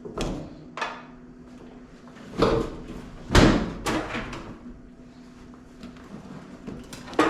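Knocks and clunks of washer and dryer doors being opened and shut as the washed laundry is moved into the dryer, with the loudest thud about three and a half seconds in and a sharp click near the end. A steady low hum runs underneath.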